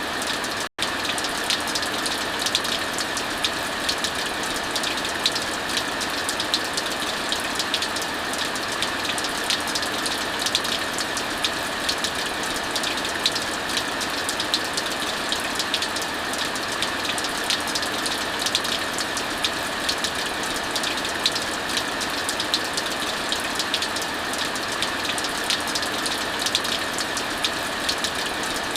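Heavy, steady rainfall mixed with a wood fire crackling, with many small sharp pops throughout. The sound cuts out for an instant just under a second in.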